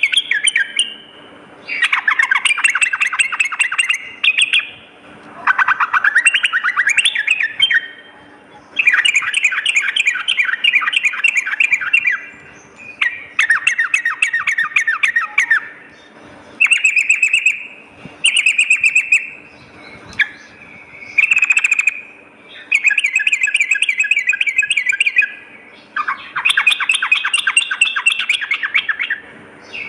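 Yellow-vented bulbul song: about ten bursts of rapid, chattering, bubbling notes, each one to three seconds long, with short pauses between them.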